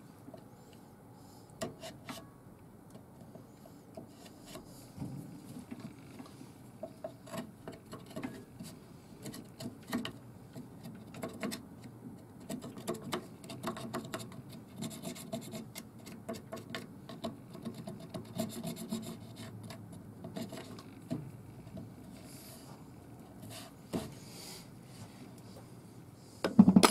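Irregular scraping and rubbing against a wet sycamore workpiece, with light clicks, done by hand rather than by a running lathe; a louder knock near the end.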